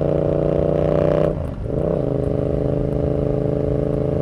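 Yamaha XSR700 parallel-twin motorcycle running through a Kelpi short aftermarket exhaust while riding. It holds steady revs, then about a second and a half in the revs dip sharply and climb back before settling steady again.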